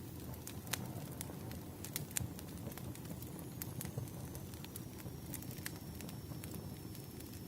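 Wood fire crackling: irregular sharp pops and snaps over a steady low rumble of burning logs. A faint, thin high tone comes in about halfway through.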